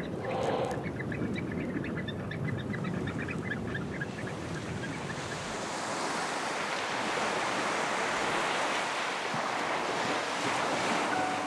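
Many birds calling in short, rapid notes over a steady rush for the first few seconds. From about five seconds in, the rush swells into the broad wash of waves breaking on a shore.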